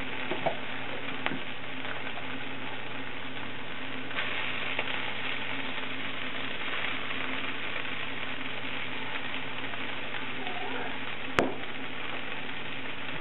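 Vegetables, paneer and sauce sizzling steadily in a hot non-stick pan on high heat, with a faint low hum underneath. There are a few light clicks in the first second or so and one sharp click about eleven seconds in.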